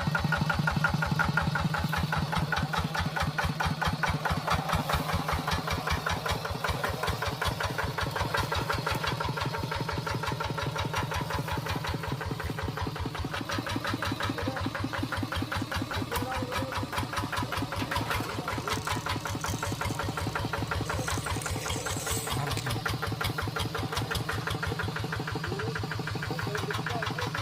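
Tractor engine running at a steady, even beat, a little louder in the first few seconds.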